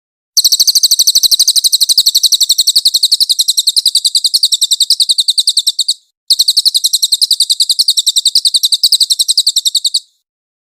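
Cililin bird singing its rapid-fire 'nembak' song: a fast, even trill of high notes at about a dozen a second, in two long bursts of about five and a half and four seconds with a brief break between.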